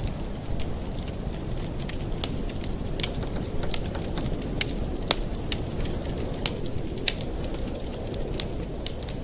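Campfire burning: frequent, irregular sharp crackles and pops from the burning wood over a steady low rumble.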